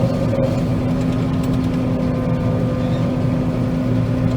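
John Deere 9500 combine running steadily under load while harvesting soybeans, a constant machine hum with a steady drone-like tone.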